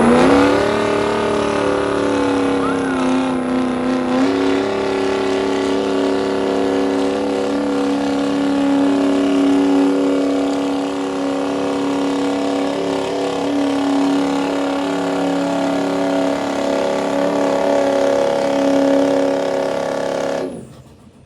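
A pulling vehicle's engine held at high revs at full throttle through a pull, steady with a slight rise in pitch about four seconds in, then cut off abruptly near the end.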